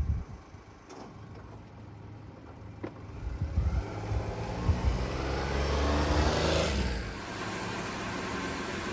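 A motor vehicle's engine and road noise swelling to a peak about five seconds in, then dropping away to a steady background hum.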